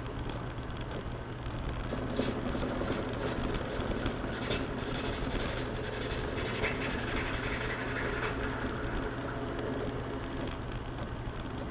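Metal lathe running while the cutting tool turns down the diameter of a workpiece: a steady machine hum under a rough scraping cutting noise that grows stronger about two seconds in and eases off toward the end.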